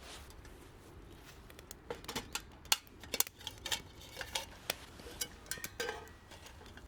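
A quick, irregular run of small clinks and taps of metal camp cookware and utensils, starting about two seconds in and stopping shortly before the end.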